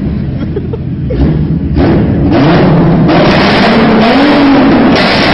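Nissan R33 GT-R's RB26 straight-six, fitted with a big single turbo and an external wastegate screamer pipe, revving hard. It is quieter at first and then very loud from about two seconds in, with the revs rising and falling.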